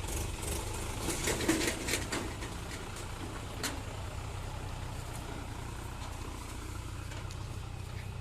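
Vehicle engine running steadily at low revs, with a few sharp clicks and knocks in the first two seconds and another about three and a half seconds in.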